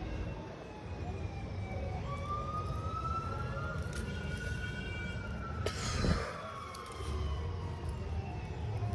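A siren wailing slowly, its pitch rising over a few seconds and then falling, over a steady low rumble. One sharp crack about six seconds in.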